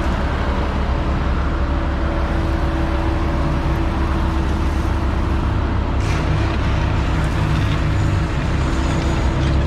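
Diesel engine of heavy earthmoving equipment running steadily under work, with a low rumble and a steady hum; the sound grows a little harsher about six seconds in.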